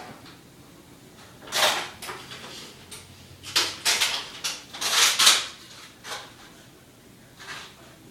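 Thunder crackling and rumbling in several bursts, one about a second and a half in and a longer, louder run from about three and a half to five and a half seconds in.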